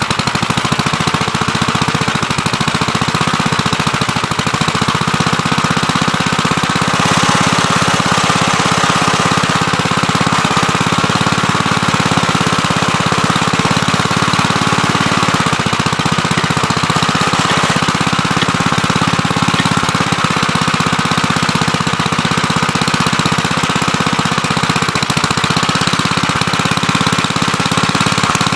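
Gravely Terramite compact backhoe's engine running steadily under work, with a fast even chugging pulse and a higher whine that wavers slightly in pitch.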